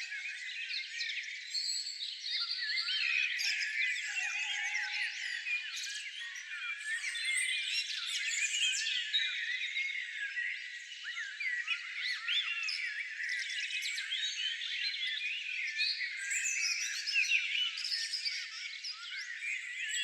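Many small songbirds chirping and twittering at once: a dense, continuous chorus of short, high, quickly rising and falling calls.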